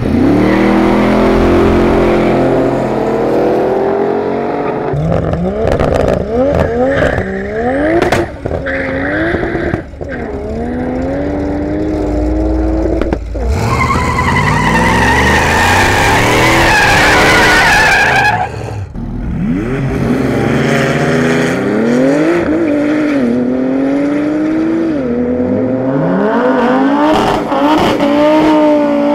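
Drag-racing cars accelerating hard, engines revving up through the gears again and again. In the middle, a loud tyre screech lasts about four seconds.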